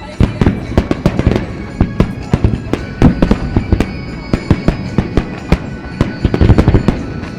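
A barrage of aerial fireworks bursting, many sharp bangs in quick succession. Music accompanies the show throughout.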